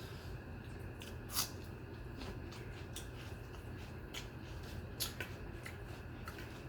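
Eating sounds of a person eating rice and curry: small wet clicks of chewing and handling food, with two louder clicks about a second and a half in and about five seconds in, over a steady low hum.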